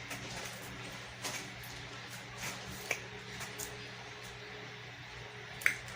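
Electric fan running steadily with a low hum, with a few faint clicks scattered through.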